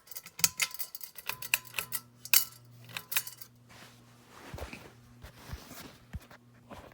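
SMC DC42 ceiling fan with a light kit: its motor starts a steady low hum about a second in. Over the first few seconds there is a quick run of light metallic clinks and ticks, which then die away while the hum carries on.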